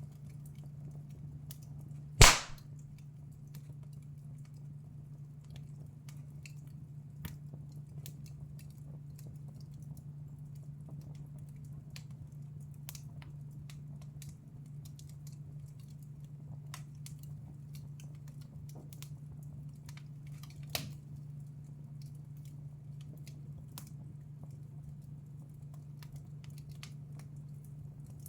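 Wood fire in a fireplace crackling with scattered small clicks, a loud sharp pop about two seconds in and another, smaller pop near the end, over a steady low hum.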